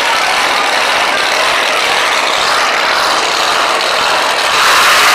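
Loud engine noise from racing vehicles, growing louder about four and a half seconds in.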